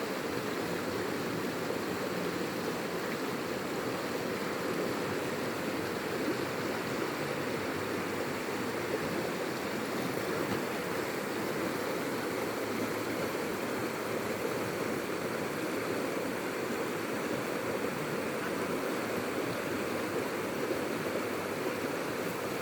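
River water flowing, a steady rushing noise that does not change.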